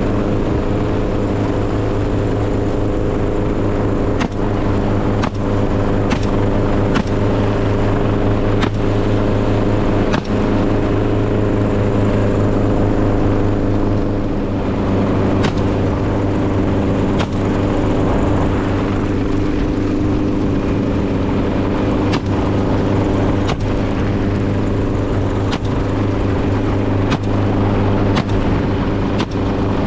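A steady engine drone with sharp clicks or knocks about once a second, irregularly spaced.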